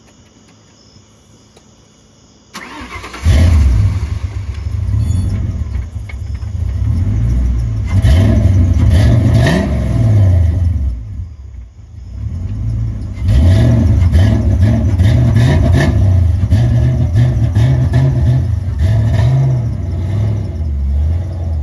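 A vehicle engine starts about three seconds in, then runs and is revved up and down, dropping off briefly about halfway through.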